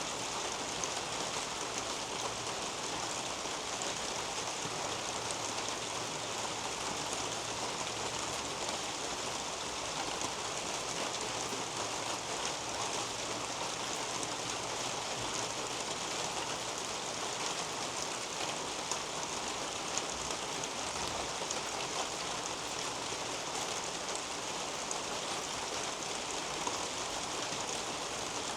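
Steady rain falling on leaves and a roof overhead, a dense even hiss with many individual drops pattering through it.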